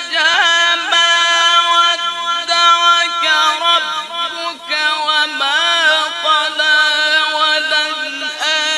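A man singing long, sustained notes on a single breath, with wavering ornamental turns in the melody.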